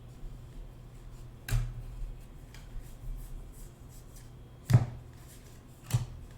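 Hands rustling through baseball trading cards from a freshly opened pack. Three short knocks, like cards or a pack set down on the table, come about a second and a half in, near the middle, and near the end.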